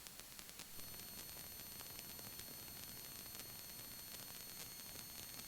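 Faint steady hiss from the helicopter's radio and intercom audio feed, with thin high whines and a few faint ticks.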